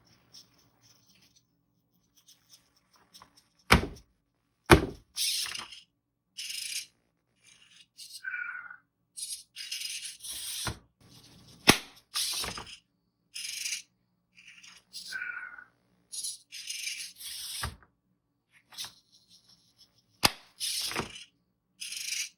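A SunFounder PiDog robot dog's small servo motors whir in short buzzy bursts about a second apart as its legs and head move, with several sharp knocks as parts of the robot strike. Twice a short falling whine sounds.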